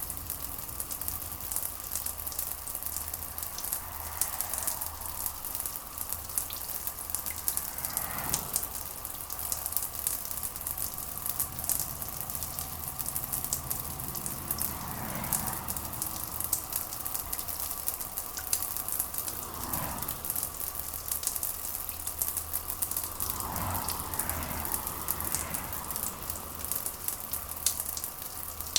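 Steady rain pattering, a dense crackle of many small drops over a low, steady hum. Now and then a faint, muffled sound swells and fades.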